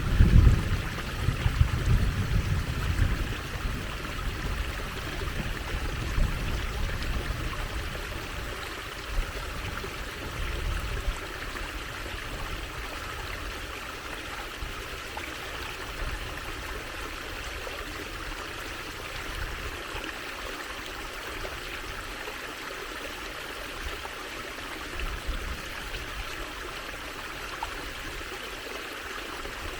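Water trickling and running in a small stream, a steady even splashing hiss. Low rumbles stand out in the first few seconds, the loudest part, and again about ten seconds in.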